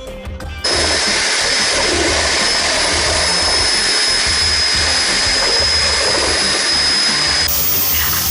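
A small electric motor tool running steadily with a high whine. It switches on abruptly under a second in and cuts off shortly before the end, over background music.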